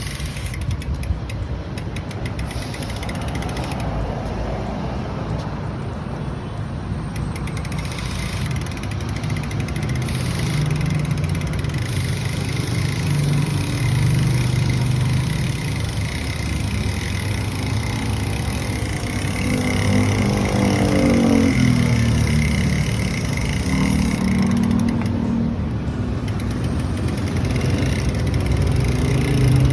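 A motor vehicle engine running steadily, with a brief rise and fall in pitch about twenty seconds in.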